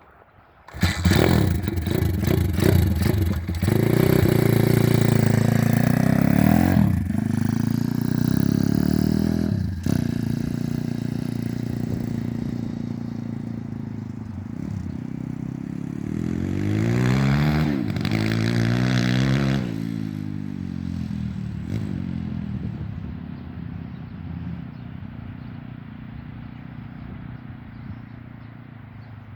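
Pit bike engine coming in loud about a second in and revving hard, its pitch sweeping up and down as the rider accelerates and shifts, with another run of rising and falling revs about two-thirds of the way through; then the engine sound fades steadily as the bike moves away.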